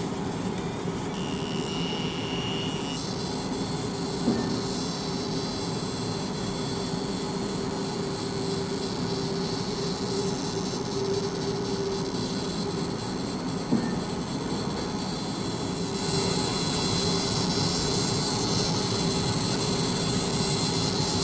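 Fiber laser engraving, the beam vaporising the solid material with a steady high buzzing whine over a constant low hum. A short high tone sounds about a second in, two sharp clicks come around four and fourteen seconds in, and the whine grows louder and brighter for the last five seconds.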